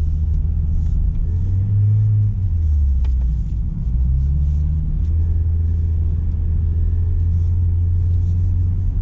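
1997 Mazda Miata's 1.8-litre four-cylinder engine droning at low revs under light throttle in the snow, heard from inside the cabin. Its pitch rises briefly about two seconds in and falls back, rises again around four seconds in, then holds steady, with a single sharp click near the middle.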